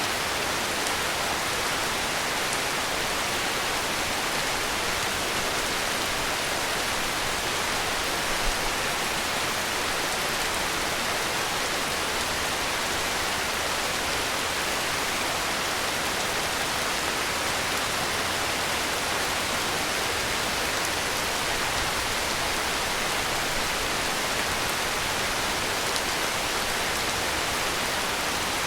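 Heavy rain falling steadily, an even unbroken hiss with no separate drops standing out. A brief low thump about eight seconds in.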